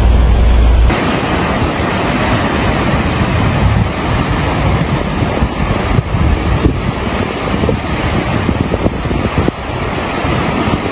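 Rushing floodwater with wind buffeting the microphone. A heavy low rumble gives way abruptly about a second in to a steady rush of water, with a few scattered knocks.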